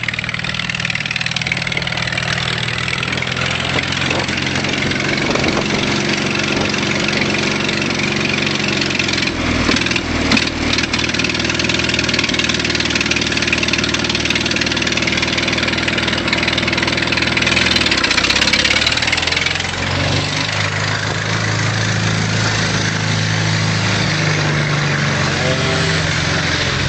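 Volvo T31 tractor engine running steadily, its pitch shifting a few times, about 10 seconds in and again about 20 seconds in.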